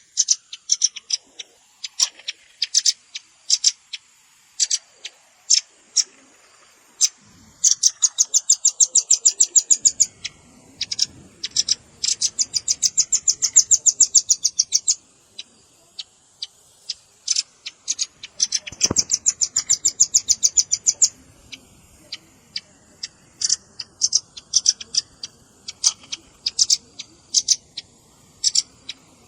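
Velvet-fronted nuthatch calls from a bird-lure recording: a string of sharp, high chips broken by three long, rapid trills.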